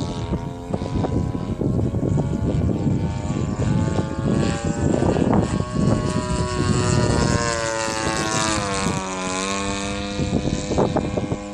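EME 35cc two-stroke gas engine of a radio-controlled Ultimate 120 aerobatic plane in flight, its propeller drone holding steady and then dropping in pitch about eight seconds in before levelling off lower. Wind gusts buffet the microphone throughout.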